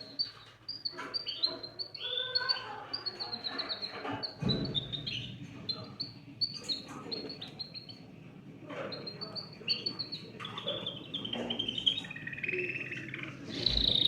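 Domestic canary singing: rapid rolling trills and strings of quickly repeated high chirps, with short pauses between phrases and a quieter stretch about halfway through.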